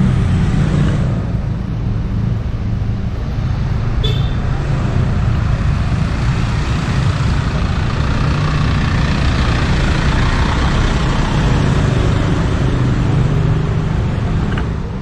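Road traffic passing close by in a steady, heavy rumble that swells through the middle, with a brief high tone about four seconds in.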